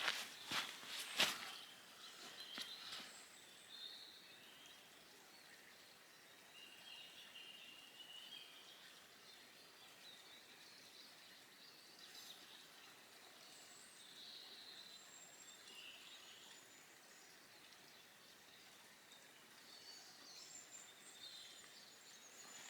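Faint birdsong: thin, twittering calls come and go over a quiet outdoor background. A few sharp clicks or snaps fall in the first three seconds.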